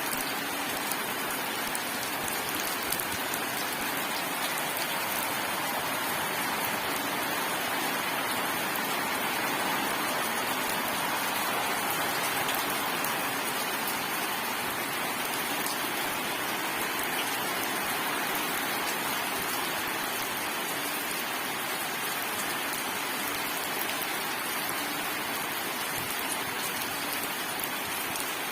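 Steady heavy rain falling and pattering on surfaces, a dense, even hiss with fine scattered drop ticks and no thunder.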